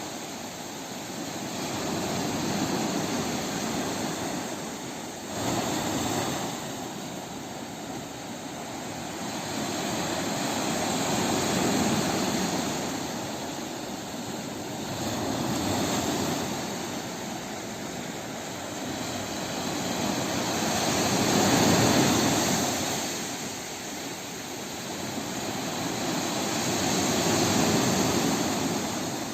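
Sea waves washing onto the shore: a steady rush of surf that swells and falls away in slow surges every few seconds.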